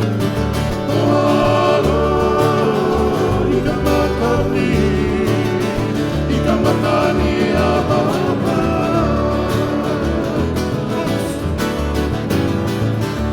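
Live Hawaiian acoustic music: strummed guitar and plucked strings over a steady bass line, with a melody line weaving above.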